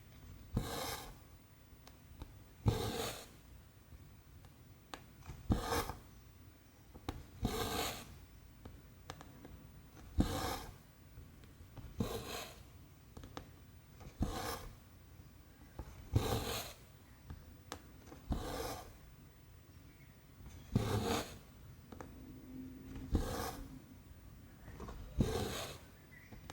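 Cotton embroidery thread being pulled through 14-count cross-stitch canvas, one stitch after another. Each pull gives a short rasp, about one every two seconds, and a few faint needle clicks fall in between.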